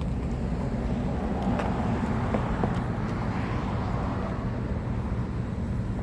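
Steady low rumble of motor traffic, swelling as a vehicle passes about two to four seconds in.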